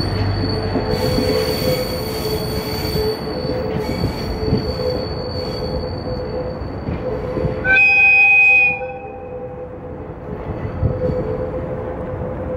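Freight tank wagons' wheels squealing on a curved track as the train rolls away, the squeal fading out about 7 s in. Near 8 s comes one loud train horn blast lasting about a second. A level crossing warning bell rings steadily underneath.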